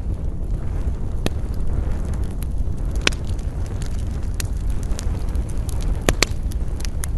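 Campfire burning, its wood crackling and giving sharp pops about a second in, around three seconds in, and twice close together near six seconds, over a steady low rumble.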